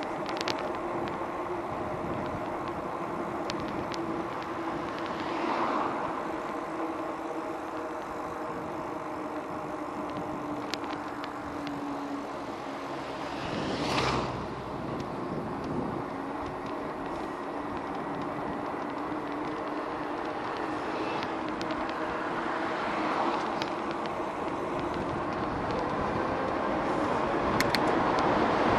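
Steady road and riding noise with a low steady hum. A motor vehicle passes close by about halfway through, rising and falling away, with fainter passes earlier and later, and the traffic noise swells near the end.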